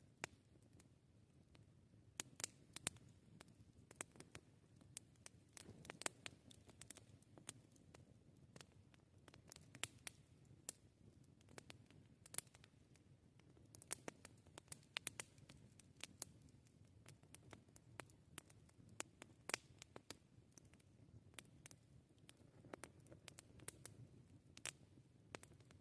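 Wood campfire crackling: irregular sharp snaps and pops, at times several a second, over a faint low steady background.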